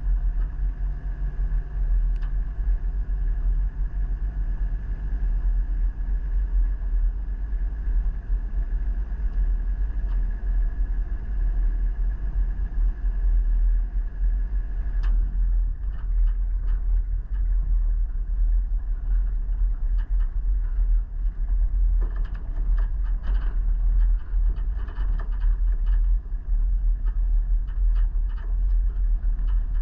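Vehicle driving, a steady low rumble of engine and road. From about halfway on, frequent light knocks and rattles join in, as if over a rougher surface.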